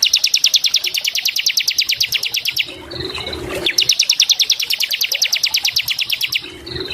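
Bar-winged prinia (ciblek) singing two long, fast trills of rapidly repeated high notes, about a dozen a second. Each trill lasts about two and a half seconds; the second begins just under four seconds in.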